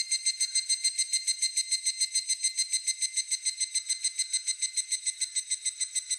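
Higurashi (evening cicada) calling: a long, even series of high, ringing notes repeated about seven times a second.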